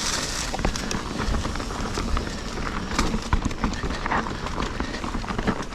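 Mountain bike rolling over rough, rocky singletrack: steady tyre and trail noise with frequent knocks and rattles from the bike.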